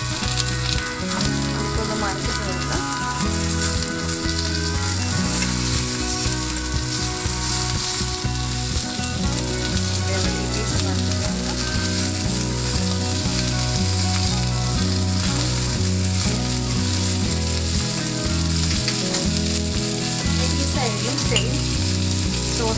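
Salmon fillets frying in butter on a hot grill pan, a steady sizzle, with soft scraping about halfway through as they are turned over with a spatula and fork.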